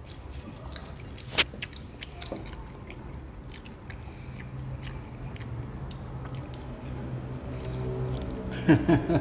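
Chewing and biting of McDonald's french fries close to the microphone: soft, irregular mouth clicks and smacks, one sharper click about a second and a half in. A short vocal sound comes near the end.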